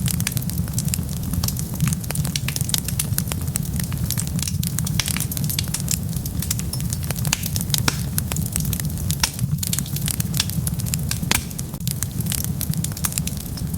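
Wood fire burning, with dense, irregular sharp crackles and pops over a steady low rumble.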